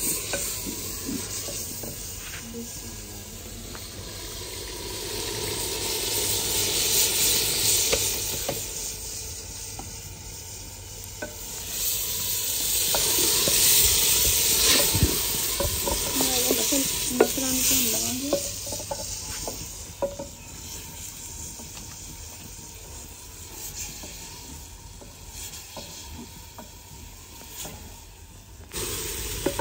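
Whole lentils sizzling in hot spice masala in a clay pot while being stirred with a wooden spoon, with light clicks of the spoon. The sizzle swells twice, near a quarter of the way in and more strongly around the middle.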